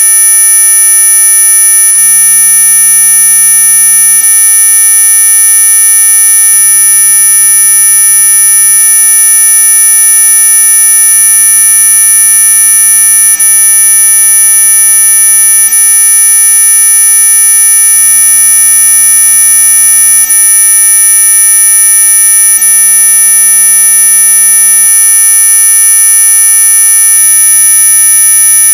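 Electronically generated anti-mosquito tone track: a loud, unchanging chord of many steady high and low tones together, giving a constant shrill buzz. It is sold as an ultrasonic mosquito repellent, but its tones lie well within hearing.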